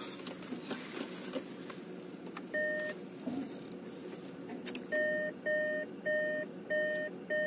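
Opel Frontera's engine running steadily, heard from inside the cabin. A two-tone electronic beep sounds once about two and a half seconds in, and from about five seconds in it repeats about twice a second, with two quick clicks just before.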